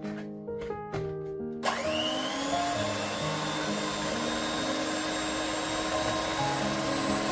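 An electric household appliance motor switched on, whining up to speed and then running with a steady whir, under soft background music.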